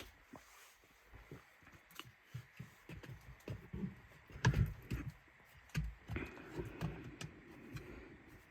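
Soft, irregular footsteps and small handling clicks and knocks, with a few dull thumps about four and a half and six seconds in.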